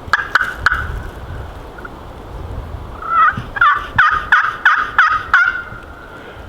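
Turkey yelping: three quick yelps at the start, then after a pause a run of about seven sharp yelps ending in a drawn-out note.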